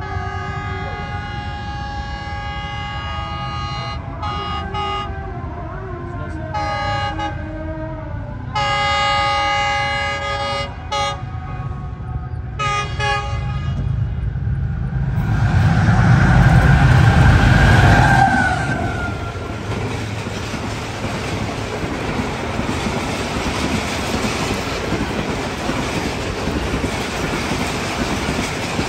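Locomotive horn sounding in a series of long and short blasts as a passenger train approaches the crossing. The locomotive then passes close by with a heavy rumble that is loudest a little past halfway, followed by the steady rush of the passenger coaches going by.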